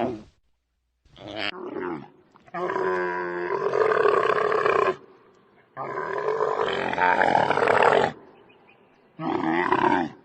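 An animal calling four times with loud, pitched calls: two short calls and two long ones of about two and a half seconds each.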